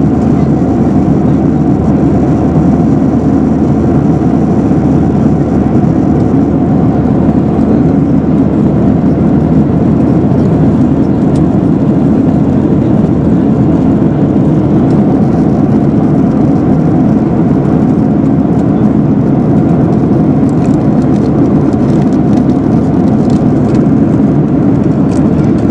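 Steady, loud drone inside a jet airliner's cabin in flight: engine and airflow noise that holds level without change.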